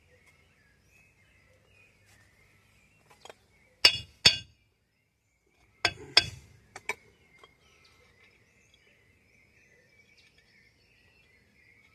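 Sharp metal clinks of a small bolt and tools being handled during wheel-hub assembly: two clinks close together about four seconds in, then a loose cluster of several more a couple of seconds later.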